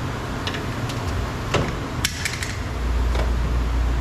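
A flathead screwdriver prying at a car's exterior door handle, giving a few sharp clicks and knocks as the handle works loose, with a quick cluster of clicks about two seconds in. A steady low rumble comes in near the end.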